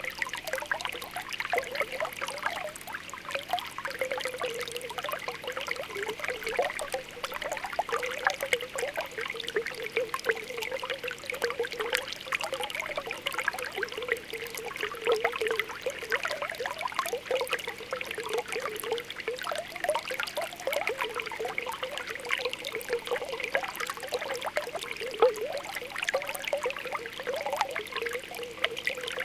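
Spring water welling up from the ground in small, continuous bubbling pops, a steady burble of tiny blips with light trickling.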